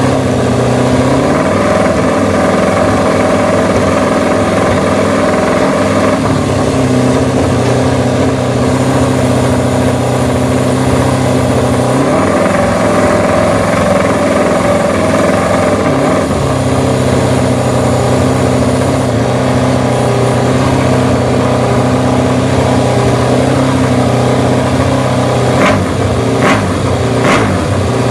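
Aprilia V4 motorcycle engine running loudly through its exhaust at a steady low speed, its note wavering a few times. Several sharp cracks come near the end.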